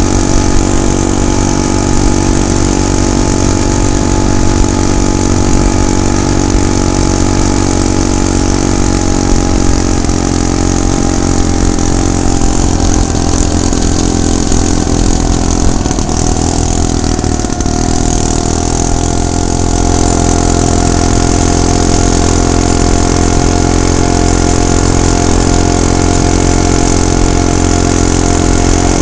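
Small gasoline engine of a motorized bicycle running steadily under way. Its pitch sags around the middle, then settles a little lower.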